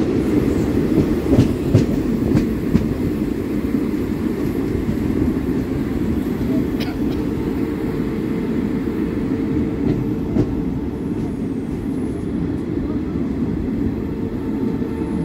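Indian Railways train running steadily along the track with a continuous low rumble. A few sharp clicks of wheels over rail joints come in the first three seconds, and a couple more later.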